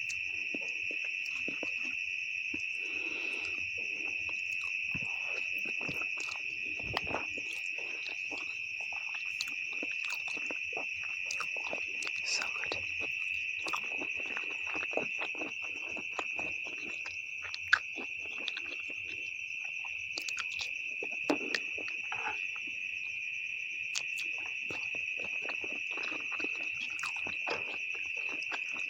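Close-miked eating of instant noodles with beef: irregular chewing, smacking and slurping clicks, with a few sharper clicks, the loudest about 18 seconds in. A steady high-pitched insect chirring, like crickets, runs underneath throughout.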